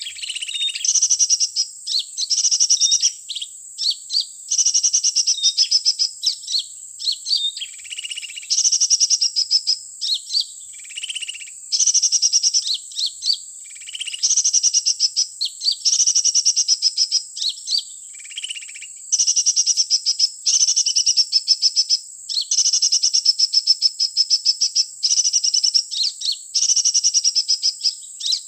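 Sunbird ('kolibri') song played back from an MP3 as a trapping lure: loud, rapid, high chirping phrases about a second long, repeated over and over with short gaps, over a steady high tone.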